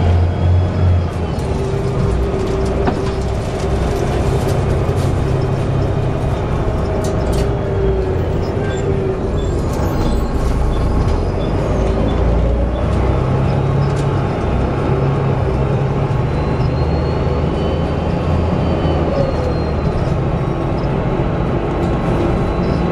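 Volvo B7TL bus engine and Allison automatic driveline running under way, with a high whistling whine that rises and falls in pitch, which the uploader puts down to a bad differential.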